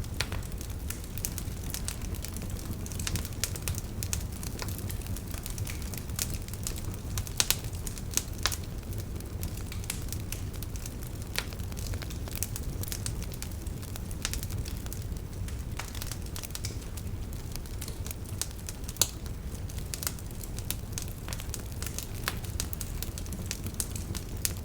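Wood campfire crackling: irregular sharp pops and snaps over a steady low rumble of the flames, with a few louder pops about a third of the way in and again around three quarters through.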